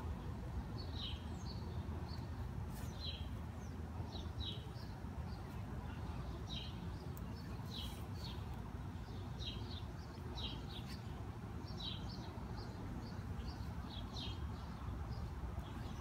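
A bird chirping over and over, short high chirps often in pairs, recurring every second or so, over a steady low rumble.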